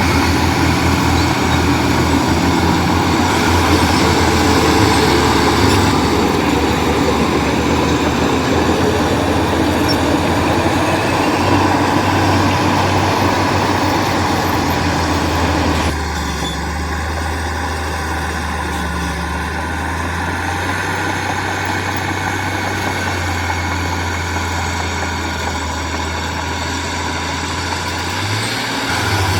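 Heavy construction machinery engine running steadily with a low drone under broad mechanical noise. About halfway through, the sound changes abruptly to a quieter, smoother drone.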